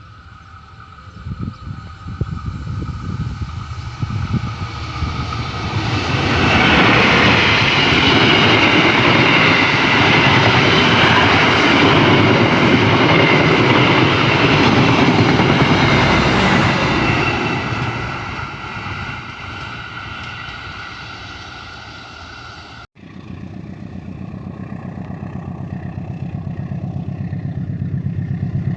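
CC201 diesel locomotive passing with its train: engine and wheel noise build up, stay loud for about ten seconds as it goes by, then fade. After an abrupt cut near the end, another train's noise builds again with a regular clatter.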